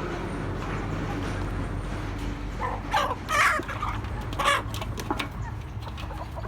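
Chickens calling, with loud calls about three seconds in and again a second later, over a steady low rumble.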